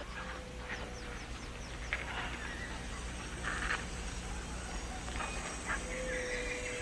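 Rainforest ambience of assorted wild calls, most likely birds, with a quick run of falling high notes about a second in and longer held calls later, over a steady faint hum.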